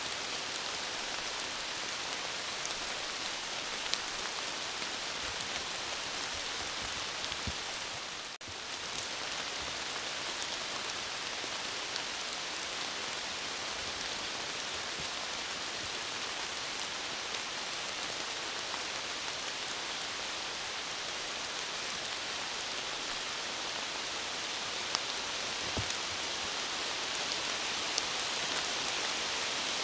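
Heavy rain falling steadily, an even hiss with scattered sharper drop hits. The sound dips out briefly about eight seconds in.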